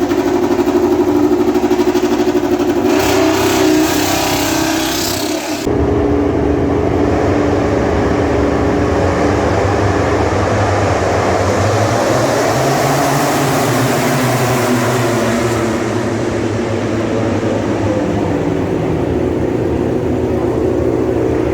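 A motor vehicle's engine running on the move, steady in pitch, with an abrupt change in the sound about six seconds in, after which the engine note rises and falls around the middle.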